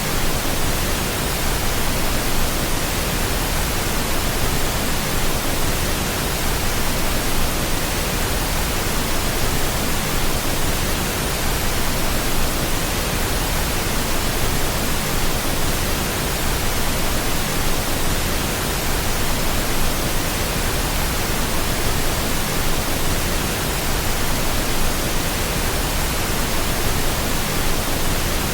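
Steady, unchanging pink noise: an even hiss spread across all pitches, played continuously as a sleep aid.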